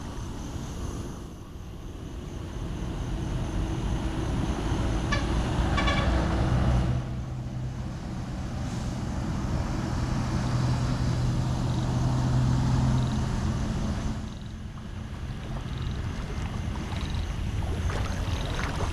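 A motor vehicle's engine running, its level building over the first few seconds and settling into a steady hum through the middle.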